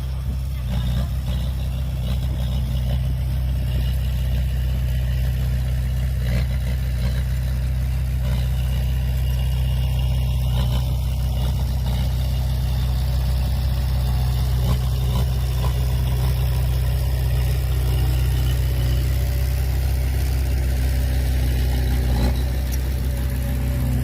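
Heavy diesel engine of a dump truck or bulldozer running steadily with a deep, even hum, with no clear revving.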